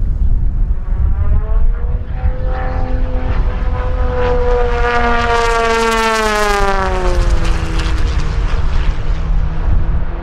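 Single-engine aerobatic propeller plane flying past. Its engine note grows louder, peaks about halfway through, then drops in pitch and fades as it goes by, over a constant low rumble.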